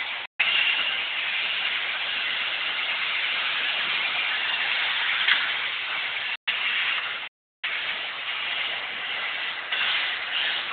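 MSI robot vacuum running, its suction fan and brushes giving a steady, hissing whir. The sound drops out to dead silence briefly near the start and twice between about six and seven and a half seconds in.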